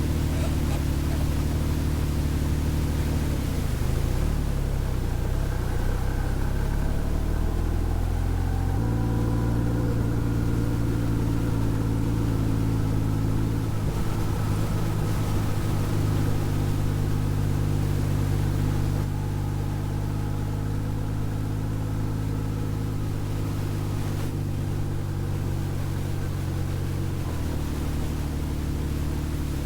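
Honda Gold Wing GL1800's flat-six engine running under way. The engine note falls and rises again a few seconds in, steps up about nine seconds in, then holds steady.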